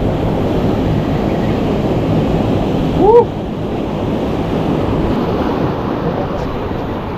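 Surf and wind on the microphone, a steady rush. About three seconds in there is a brief rising pitched sound, the loudest moment.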